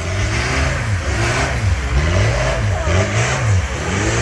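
Tractor engine running hard and being revved up and down over and over, its pitch rising and falling about once or twice a second.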